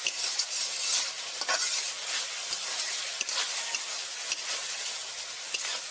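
Ground spice paste (bata masala) sizzling in mustard oil in a metal kadai while a metal spatula stirs it, with frequent short scrapes and knocks against the pan. The oil has separated from the paste: the masala is nearly fully fried.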